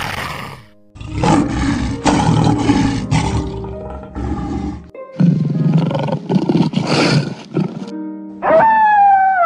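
A big cat, shown as a lion, gives rough, repeated roars and growls in separate bursts over background music. Near the end a wolf starts a single howl that slides down in pitch.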